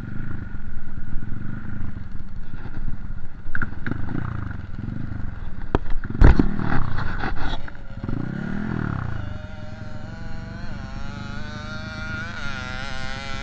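Motocross bikes running on a dirt track, their engines revving up and falling away over and over as they ride past. A sharp, loud knock comes about six seconds in. In the last few seconds an engine is held at a wavering rev.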